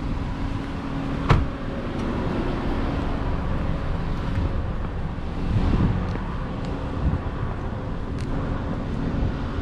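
Car engine running at low speed as the car is manoeuvred slowly, a steady low rumble with a sharp click about a second in and a brief swell in level around the middle.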